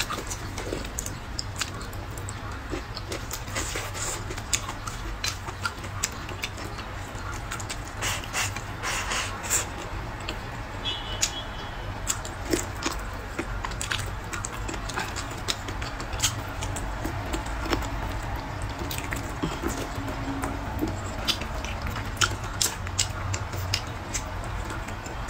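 Close-miked eating sounds of someone chewing braised pork ribs and green peppers: irregular clicks and smacks of the mouth, over a steady low hum.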